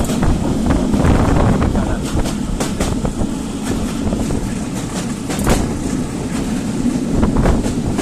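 Oil tanker train running on the rails: a steady low rumble with irregular sharp clacks of wheels over rail joints.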